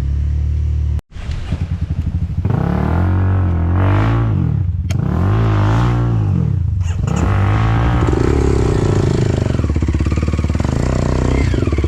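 Enduro dirt bike engine revving up and down in several swells, then running steadily at higher revs. The sound cuts out briefly about a second in.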